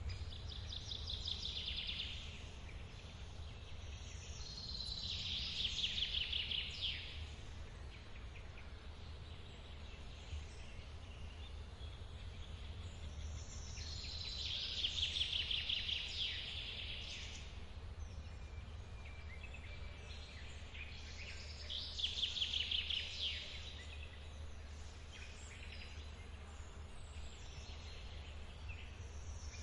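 A songbird repeating a fast trilled phrase about every eight seconds, over the steady low rush of a forest waterfall.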